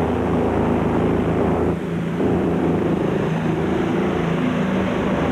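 Modified pulling tractor's twin-turbocharged Rolls-Royce engine running hard under full load during a pull, with a brief dip in level about two seconds in.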